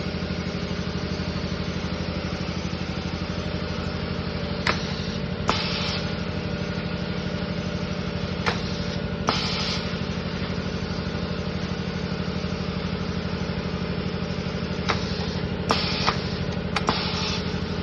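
Raincoat neck making machine running with a steady hum. Sharp clicks come at intervals, about three times in pairs, and some are followed by a short hiss.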